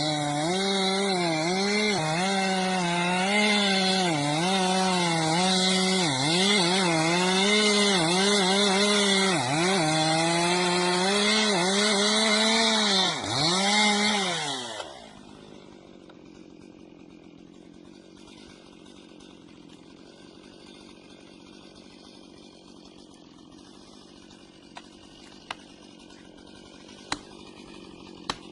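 Chainsaw running at high revs, its pitch dipping and recovering again and again as it cuts into wood. About halfway through the engine winds down and stops, leaving a faint steady background with a few sharp clicks near the end.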